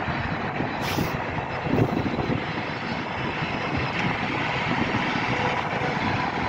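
Freight train hauled by an Sr2 electric locomotive arriving, a steady rolling rumble with a sharp click about a second in.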